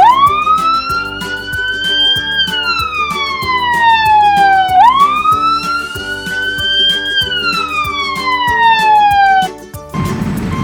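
A wailing siren rises slowly in pitch and falls again, two full cycles, over background music with a steady beat. It stops near the end.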